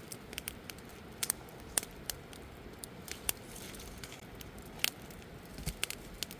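Campfire burning wood, crackling with irregular sharp pops over a low steady hiss.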